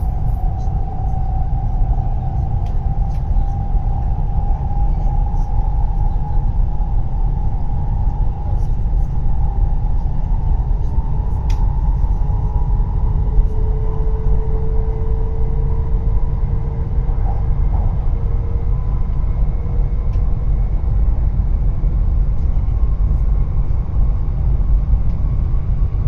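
Cabin noise of a W7 series Shinkansen running at speed: a steady heavy rumble with a faint whine that slowly drifts in pitch.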